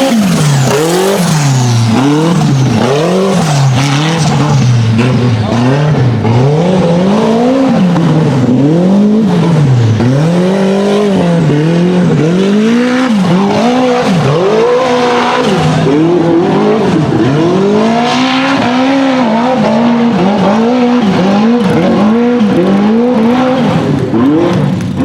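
Turbocharged RZR hill-climb buggy engine revving hard, the throttle worked on and off so the pitch climbs and drops about once a second, over and over.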